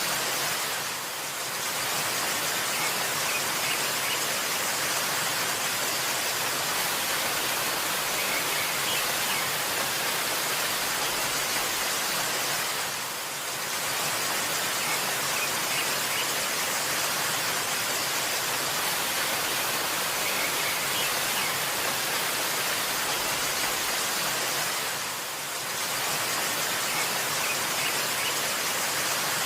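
Steady rushing of a waterfall, an even hiss of falling water that dips briefly about every twelve seconds.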